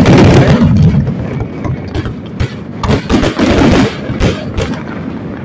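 Fireworks display: a rapid barrage of shell bursts and dense crackling. It is loudest in the first second and again around three to four seconds in.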